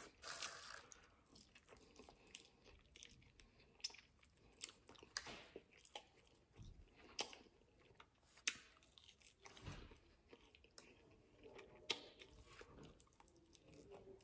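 Faint, close-miked chewing of fried food: irregular soft crunches and sharp wet mouth clicks, spaced a second or two apart.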